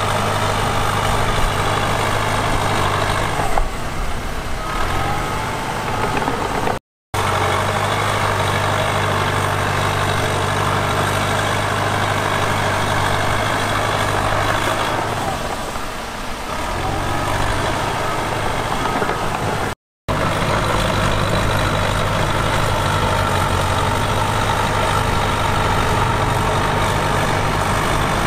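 Heavy diesel engine running steadily, its note weakening and shifting briefly twice, with two split-second dropouts to silence.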